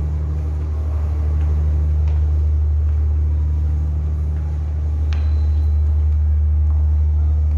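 Ship's diesel engines running on board a ferry: a steady, loud low rumble, with a single sharp click about five seconds in.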